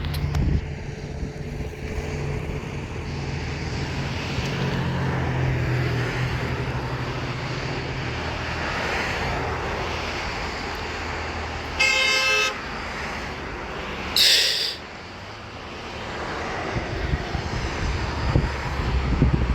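Passing road traffic with a steady engine drone, then a short car horn honk past the middle and a second, higher-pitched honk about two seconds later.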